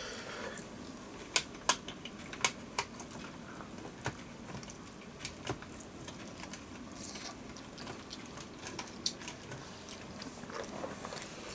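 Quiet, scattered wet clicks and smacks of a child eating chicken by hand, chewing and picking the meat off with his fingers.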